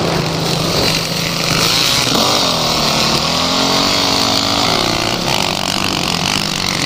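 Off-road vehicle engine running, steady at first, then its pitch rising and falling over several seconds as the revs change, over a constant hiss.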